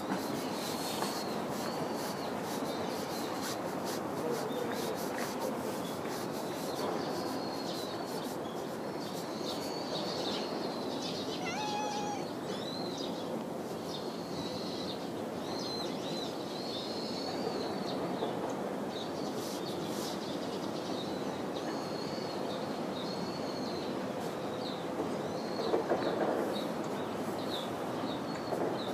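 Small birds chirping repeatedly in short, warbling notes over a steady background rumble.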